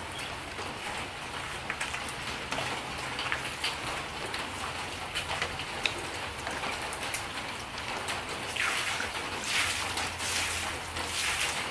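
Tropical rain falling steadily, with many close raindrops tapping sharply among the steady hiss, a little louder near the end.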